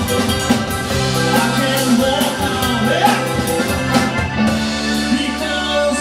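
Rock-and-roll band playing: held chords over a steady drum beat with cymbal strikes.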